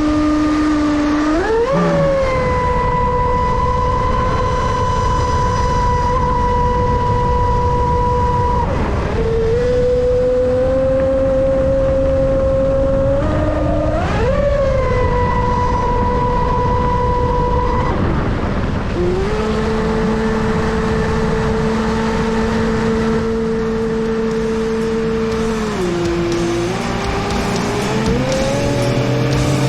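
Pro Boat Sonicwake 36 RC boat's brushless electric motor whining under throttle over a steady rush of noise. Its pitch jumps up twice, holding steady between changes, and drops and shifts several times later on.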